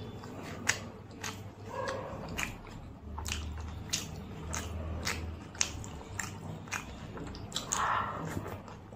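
Close-miked chewing and lip-smacking of a person eating puri with ghugni, with many short mouth clicks and a louder mouthful near the end.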